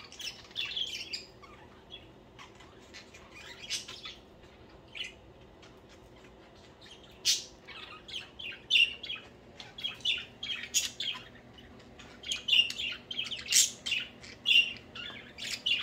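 A group of pet budgerigars chirping and chattering in short, quick calls, sparse at first and much busier from about seven seconds in.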